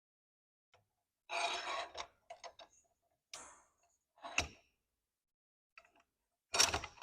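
Intermittent metallic clanks and scrapes of sheet steel and a hand-operated bench guillotine and press brake being handled and set up: a short scraping stretch early on, a sharp knock in the middle, and a louder clank near the end.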